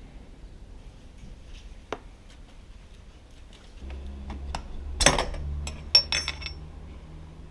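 Metal tools and parts clinking and clattering as they are handled. A few scattered clicks come first, then a quick cluster of louder clinks about five seconds in, one of them ringing briefly.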